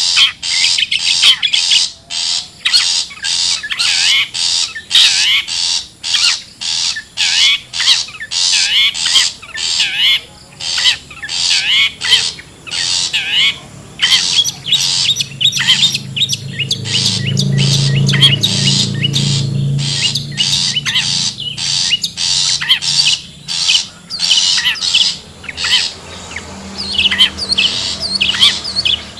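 Long-tailed shrike (cendet) giving harsh, scratchy scolding calls, repeated rapidly about two a second, the kind of call used to lure shrikes in. A low rumble rises for a few seconds in the middle.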